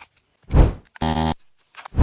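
Edited-in cartoon sound effects: a falling whoosh about half a second in, then a short harsh buzz lasting about a third of a second.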